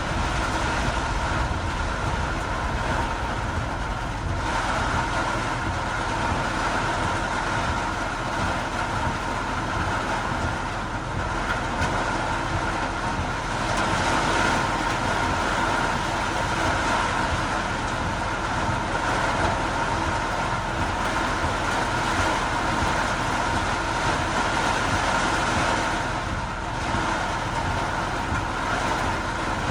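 Steady noise of heavy rain and vehicles on a wet road, with a low rumble of traffic throughout.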